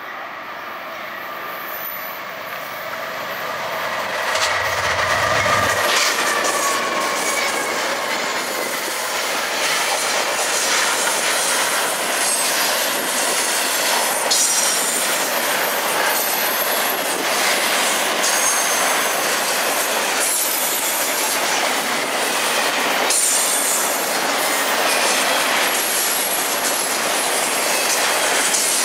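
Diesel-hauled freight train approaching at speed and passing close by. The locomotives go by about five seconds in, and the sound then holds loud and steady as a long string of double-stack container cars follows. Steady wheel-on-rail roar with repeated clicks and brief high wheel squeals.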